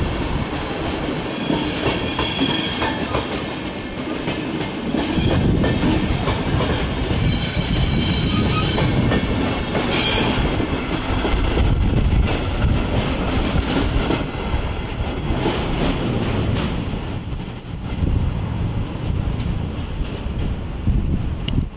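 Deutsche Bahn Intercity trains rolling past on the steel bridge, wheels clattering over the rail joints and points, with wheel squeal in the middle.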